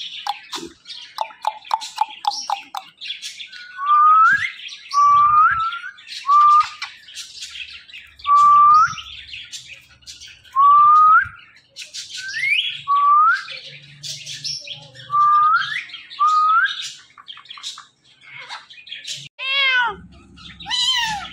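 Pet ringneck parrot chattering and whistling. A quick run of chirps comes first, then a series of short rising whistles about once a second. Near the end come a couple of arching, meow-like calls, the parrot imitating a cat.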